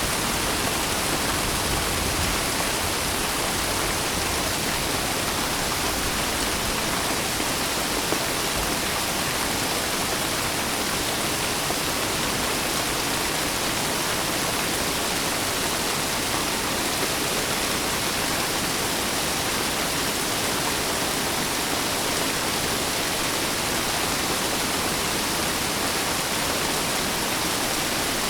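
Steady rain, an even hiss of rainfall with no distinct drops or thunder standing out.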